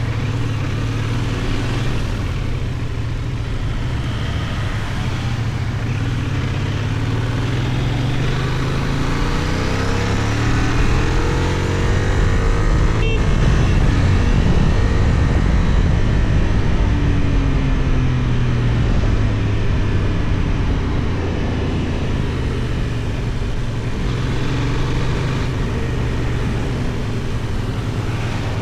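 Benelli Tornado 550's 554 cc parallel-twin engine running under way, its pitch climbing around ten seconds in and easing off again later.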